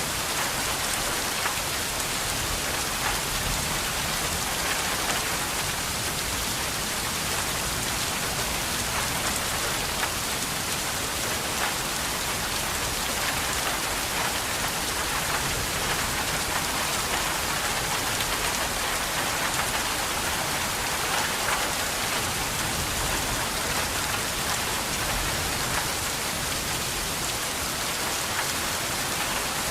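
Steady rain falling on a surface, a dense even patter with small drop hits throughout.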